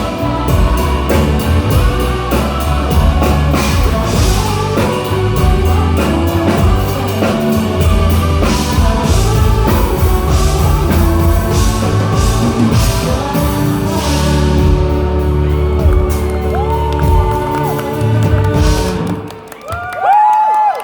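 A live rock band playing loudly with drum kit, bass and guitar; the song ends about nineteen seconds in. The audience then shouts and whoops near the end.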